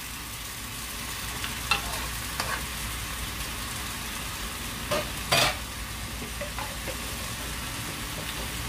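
Zucchini slices frying in a pan over high heat, a steady sizzle, with a few light knocks and one louder clack about five seconds in.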